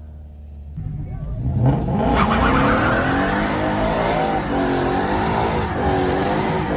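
A car engine revving: it is quiet for about a second, then the revs climb and are held high, wavering up and down.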